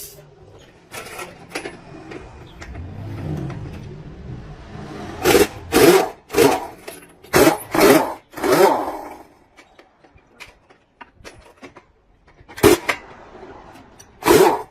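Hand-tool work: a run of loud, short strokes or knocks, six in quick succession over about three and a half seconds, then two more a couple of seconds apart near the end.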